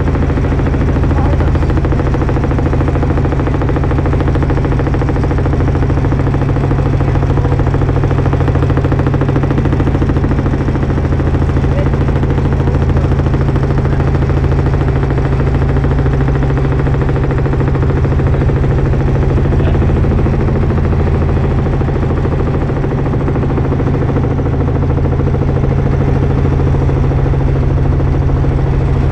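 Helicopter engine and rotor running steadily, with a fast, even chopping pulse under a constant low hum.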